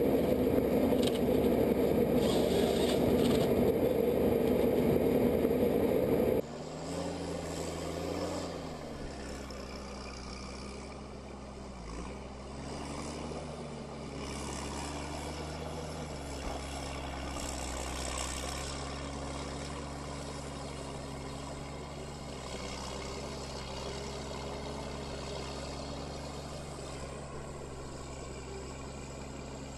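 A loud, dense machine noise, which stops abruptly about six seconds in, giving way to a heavy engine running steadily, its pitch dipping briefly a few times as if taking on load.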